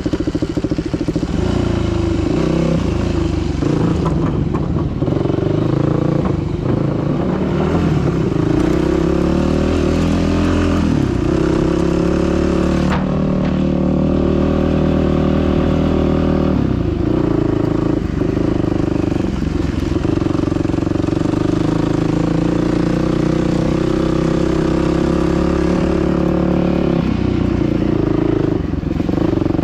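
Dirt bike engine running hard on a trail, the revs rising and dropping over and over, with short breaks in the tone every few seconds.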